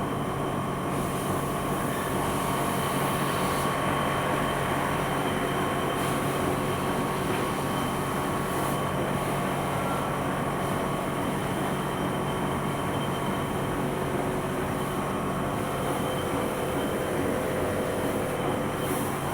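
Four-colour Heidelberg Speedmaster SM 52 sheetfed offset press running steadily while printing, a continuous mechanical drone with a few steady hums and whines.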